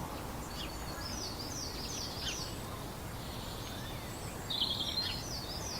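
Small birds chirping: quick, high, down-sweeping chirps in two runs, the second near the end and louder, over a steady low outdoor background noise.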